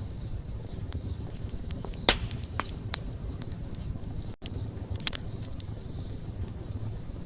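Wood fire crackling, with scattered sharp pops over the steady low rumble of the flames; the loudest pop comes about two seconds in. The sound cuts out for an instant a little past four seconds.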